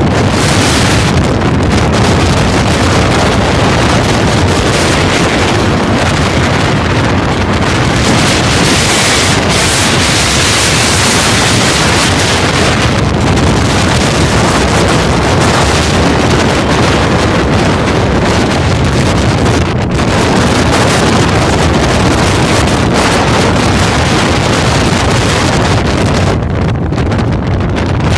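Strong wind blasting directly onto the microphone: a loud, continuous rush of wind buffeting, easing briefly twice in the later part.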